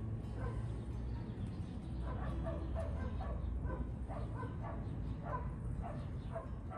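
A dog whimpering in short, repeated high calls, one or two a second, over a steady low hum.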